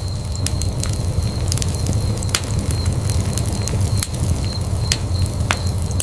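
Wood fire burning in a fireplace, with a steady low rumble and a dozen or so sharp, irregular crackles and pops from the burning logs.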